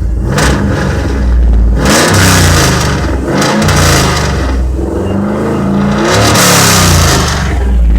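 A 2002 Chevrolet Camaro SS SLP's LS1 5.7-litre V8, with no catalytic converters, idling and being revved twice, each rev rising and falling back to idle.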